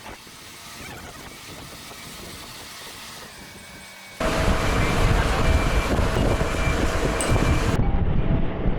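Low background noise, then about four seconds in a heavy machine's engine comes in loud and runs steadily with a faint whine over it: the boatyard crane lowering the yacht.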